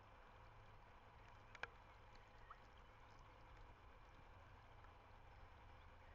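Near silence: faint outdoor microphone ambience with a low rumble, scattered faint ticks and one sharp click about one and a half seconds in.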